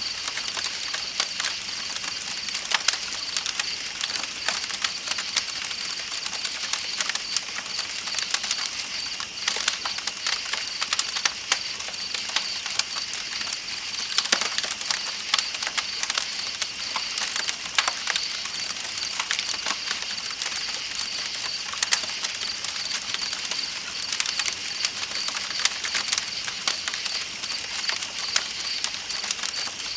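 Campfire crackling with many sharp pops, over a steady flow of river water and a continuous high chirping of night insects.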